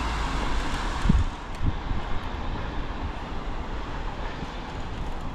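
Wind rushing over the microphone and the rumble of the bike's tyres on the road while coasting downhill, with a couple of short bumps a second or so in.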